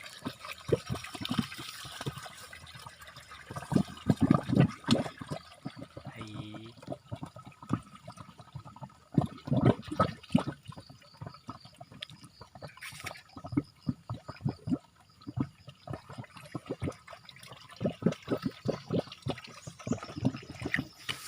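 Water gurgling and spurting out in irregular surges, the loudest about four and ten seconds in.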